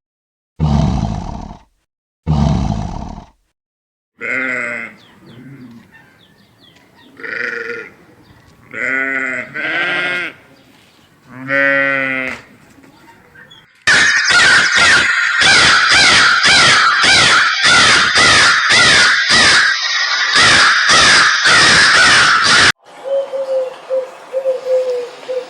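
A run of animal calls. First come three short big-cat roars. Next are several pitched bleating calls, then a long stretch of loud, rapid chirping that cuts off suddenly, and near the end a pigeon's cooing begins.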